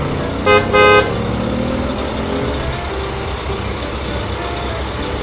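Cartoon vehicle horn honking twice in quick succession, a short toot and then a slightly longer one, over a steady low engine rumble.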